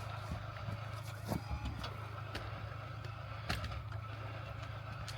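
Truck engine idling with a steady low hum, as the truck crawls slowly in low-range four-wheel drive. A few sharp clicks sound now and then over it.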